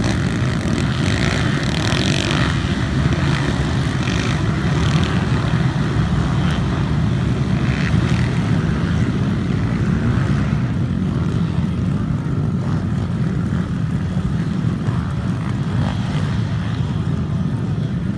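Mini bike engines running as a steady low rumble, with brief higher whines over it now and then in the first half.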